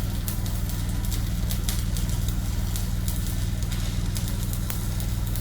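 Stick-welding arc crackling irregularly over the steady low drone of an engine running.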